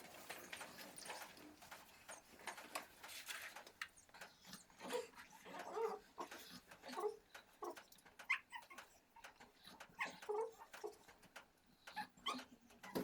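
Faint, short animal calls repeating at irregular intervals, some low and a few higher and squeakier, with light clicks and rustling in between.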